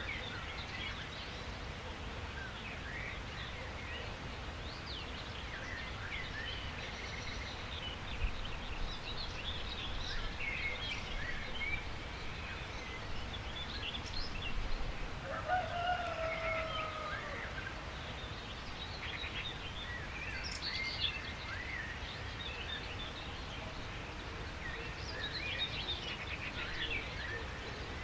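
Several wild birds chirping and singing over a steady low background noise. About halfway through, a longer, lower call with a slightly falling tone stands out for a couple of seconds.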